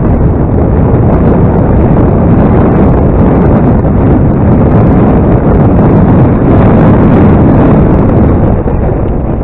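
Strong wind blasting across the microphone: a loud, steady rumbling rush with no engine tone audible through it, easing off slightly near the end.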